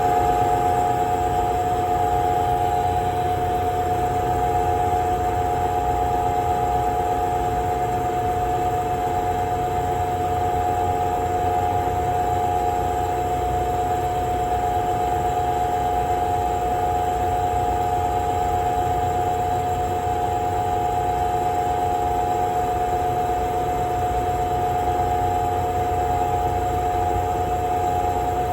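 Restaurant kitchen exhaust fan running continuously with an abnormal noise: a loud, steady whine over a low rumble. This is the kind of noise that age-worn internal parts of such fans produce.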